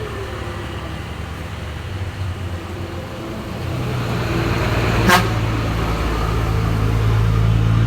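Mitsubishi Fuso tanker truck's diesel engine labouring slowly uphill. It grows louder as the truck comes closer from about halfway, and there is one short sharp pop or click about five seconds in.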